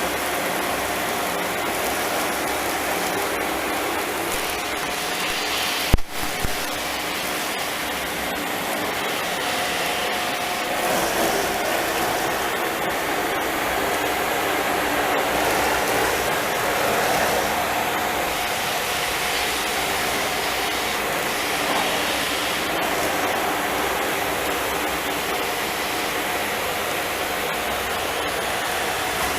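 Philips vacuum cleaner running steadily, sucking up dust and rubber bands, a rushing roar with a faint hum in it. A sharp knock about six seconds in, with a smaller one just after.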